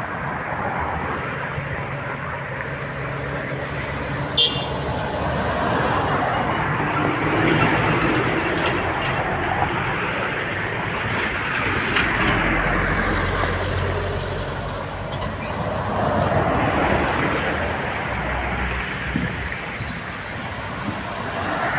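Trucks and other traffic passing on a road, engine and tyre noise swelling and fading as each vehicle goes by, with a deep engine drone strongest about halfway through. A sharp click sounds about four seconds in.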